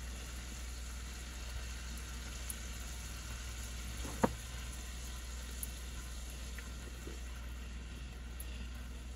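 Butter and minced garlic sizzling quietly in a stainless steel pan as a silicone spatula stirs through it, with one sharp knock about four seconds in.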